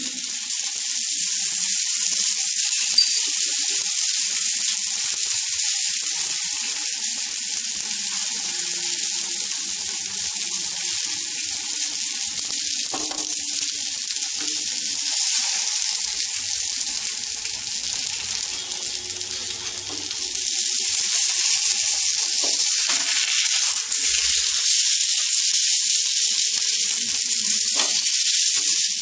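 Vegetable batter pancake (gola roti) shallow-frying in a little oil in a nonstick pan: steady sizzling that grows louder about two-thirds of the way through, with a few light knocks from a spoon and wooden spatula.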